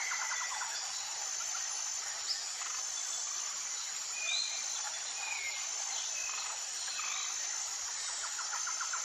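Tropical jungle ambience: a steady high insect trill over a background of insect noise, with short whistled bird calls scattered through the middle and a rapid pulsed call at the start and again near the end.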